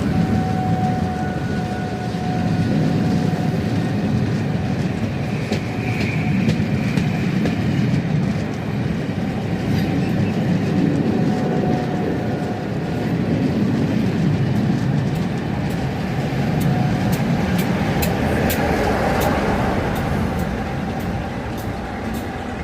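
A train passing close by: a loud, steady rumble of wheels on the rails that swells and eases. A run of sharp clicks comes through in the second half.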